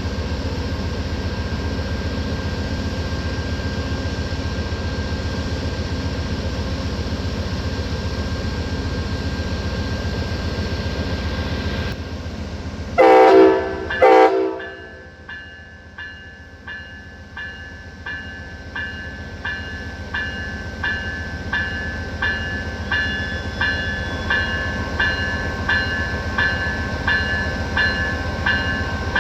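Amtrak ALC-42 Charger diesel locomotive running with a steady low rumble, then two short horn blasts about 13 seconds in, the two-short signal for releasing brakes and proceeding as the train departs. A bell then rings steadily, about one strike a second.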